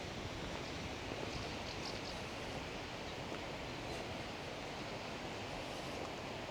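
Steady outdoor background noise, an even wind-like hiss with nothing standing out from it.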